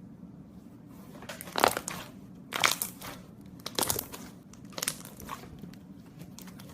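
Slime being pressed and squeezed, in four short noisy bursts about a second apart.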